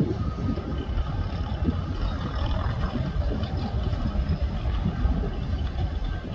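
Boxcars of a manifest freight train rolling past: a steady low rumble of steel wheels on rail.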